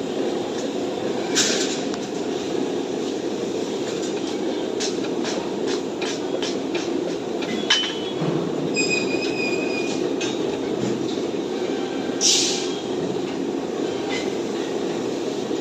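Steel cutting machine running with a steady drone. A run of sharp metal clanks comes about five to eight seconds in, a short high squeal follows a little past the middle, and there are two brief hissing bursts, one about a second in and one about twelve seconds in.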